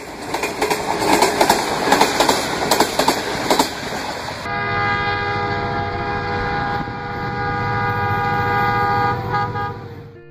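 Diesel-hauled passenger train running past, the wheels clicking and clattering over the rails. About halfway through a long, steady horn blast takes over and lasts until shortly before the end.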